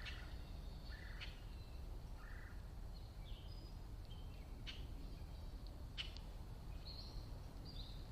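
Wild birds giving short chirps and calls, with a few sharp ticks, over a steady low background rumble.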